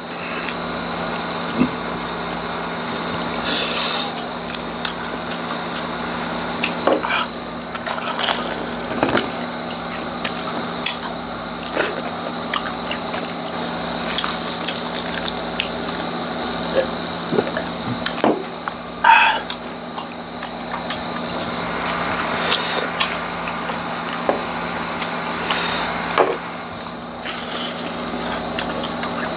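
Crunching and chewing of chicharong bulaklak, crisp deep-fried pork mesentery, picked up close by lapel microphones: irregular crisp crackles and bites over steady chewing, with a low steady hum underneath.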